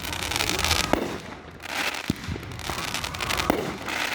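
Fireworks going off: several sharp bangs, roughly one a second, with stretches of crackling between them.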